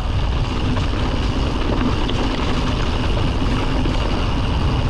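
Steady wind rumble on an action camera's microphone, with mountain-bike tyres rolling over a snowy trail during a fast downhill run.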